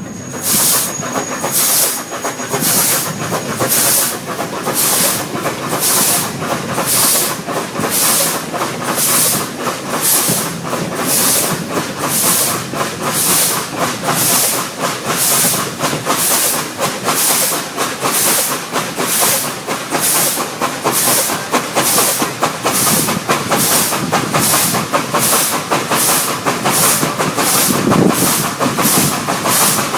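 Ex-South African Garratt narrow-gauge steam locomotive working along, its exhaust giving a steady run of chuffs over the rumble of the train. The chuffs quicken slightly as it picks up speed.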